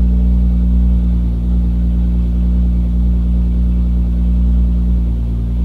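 BMW engine idling steadily, heard from inside the cabin as a low, even hum.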